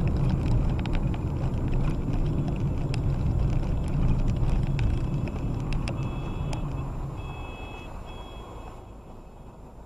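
A heavy vehicle's engine rumbling loudly, with scattered knocks and clicks. It fades away over the last few seconds. Short electronic beeps, like reversing beeps, sound three times near the end.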